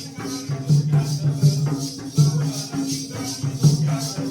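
Jakhadi folk-dance music without singing: a drum beat and a metallic jingling rhythm of about four strokes a second over a held tone.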